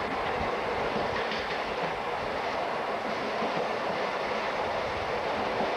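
Passenger train running, heard from aboard: a steady rumbling rail noise with irregular low knocks from the wheels and cars.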